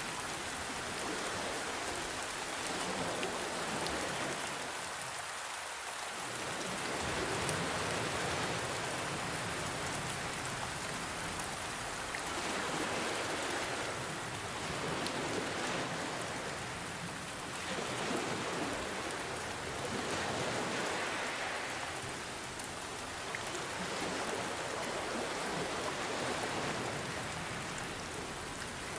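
Steady rain falling together with gentle ocean waves, the sound slowly swelling and easing every few seconds.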